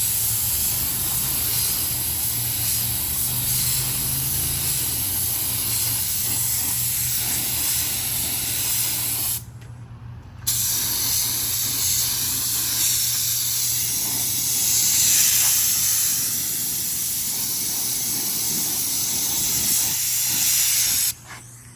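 Compressed-air paint spray gun spraying paint onto leaf springs: a loud, steady hiss that stops for about a second around ten seconds in, then runs again and cuts off just before the end.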